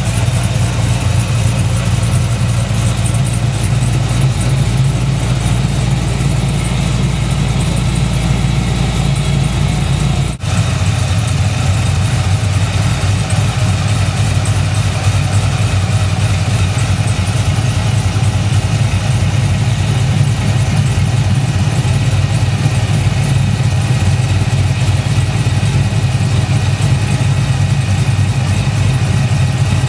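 Supercharged 6.2-litre V8 of a 2010 Camaro SS, fitted with a Whipple 2.9 twin-screw supercharger and an aftermarket cam, idling steadily in the engine bay. The sound breaks off for an instant about ten seconds in.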